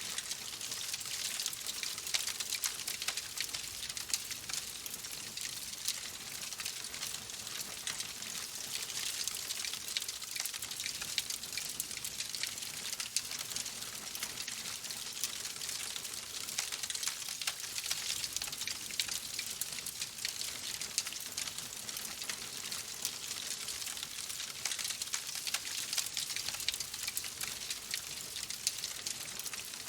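Fireplace crackling steadily: a dense stream of small pops and snaps over a soft hiss.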